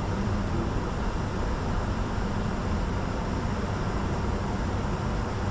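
Steady rumble and hiss inside the cockpit of a Bombardier Challenger 605 business jet, with the noise strongest at the low end and no changes.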